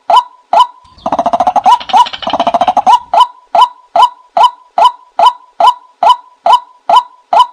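Bird calls: a short, sharp note repeated very evenly about twice a second. From about a second in, a harsh, rapidly pulsed chattering call runs for about two seconds.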